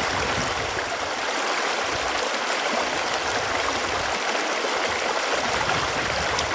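Running water flowing steadily, an even rushing and gurgling with no change in level.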